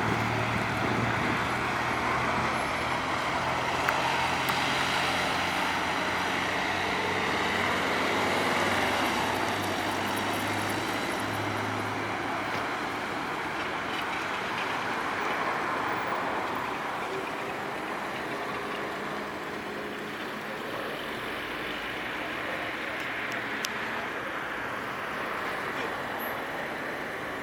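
Steady road-traffic noise, with a motor vehicle's low engine hum standing out for the first twelve seconds or so, then fading.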